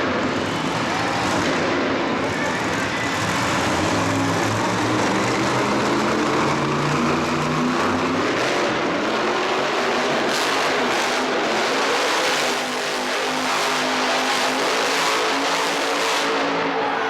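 Monster truck engine running loud and revving, its pitch rising and falling throughout.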